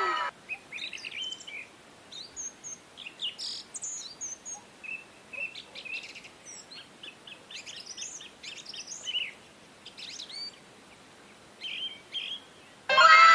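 Birds chirping and calling: many short, scattered high chirps over a faint background hiss. At the very start, a loud pitched sound with a falling tone dies away.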